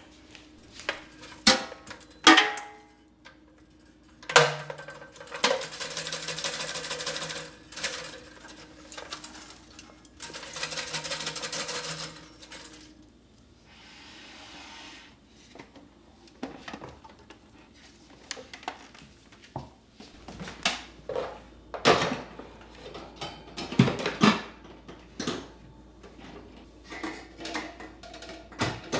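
Kitchen items being handled, with scattered knocks and clatter of objects set down and moved. Twice, a few-second burst of steady whirring noise with a low hum in it, like a small electric motor running.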